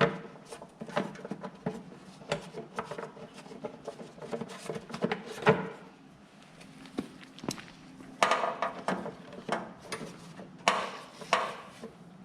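Irregular knocking and clattering of metal parts and tools being handled and fitted on a Poulan Pro snow thrower, with one sharp knock about five seconds in and denser clattering near the end. A faint steady hum runs underneath.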